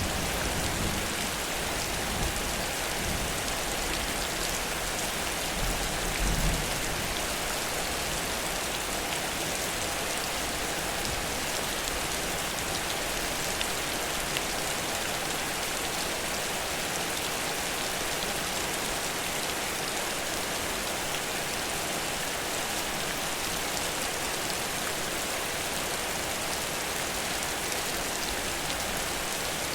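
Heavy rain falling steadily in a downpour, with the low rumble of thunder dying away in the first second and a brief low rumble about six seconds in.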